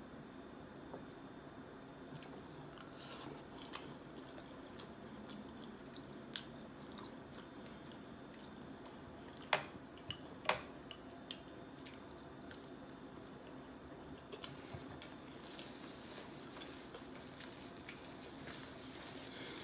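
Faint, close-miked eating sounds of a person chewing food, with scattered small mouth clicks and two sharp, louder clicks about halfway through, over a steady low room hum.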